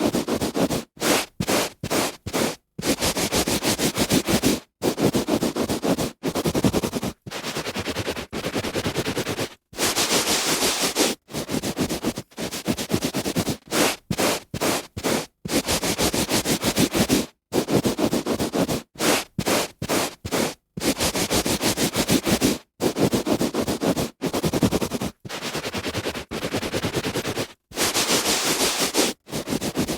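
A hand rubbing on a carpet: rubbing strokes that vary from a fraction of a second to about two seconds, split by brief gaps of silence.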